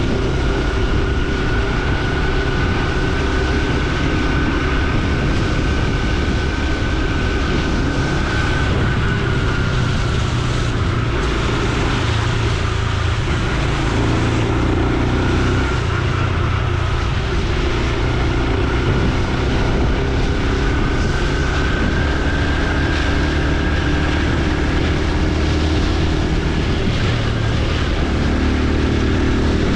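Honda Super Cub C125's air-cooled single-cylinder 125 cc engine running on the move, its note rising and falling with speed, over steady wind and road noise, with a thin high whine that drifts slowly in pitch.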